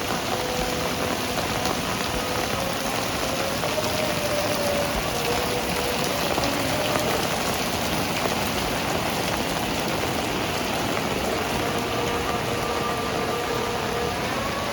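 Heavy rain falling steadily and splashing on surfaces, with faint wavering tones underneath.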